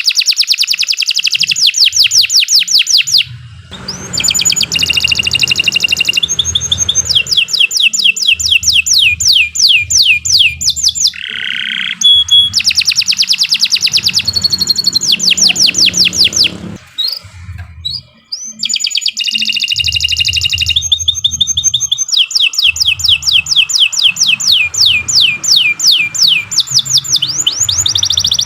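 Domestic canary singing a long song of fast repeated trills, phrase after phrase, with short breaks about three and a half seconds in, around twelve seconds and around seventeen seconds. A low rumble runs underneath.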